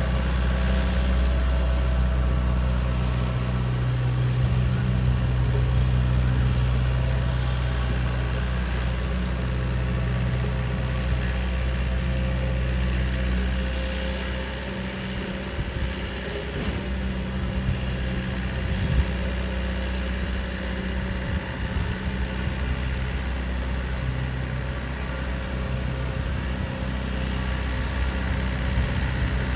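Massey Ferguson 2630 F tractor's four-cylinder diesel engine running steadily, driving an eight-foot rotavator.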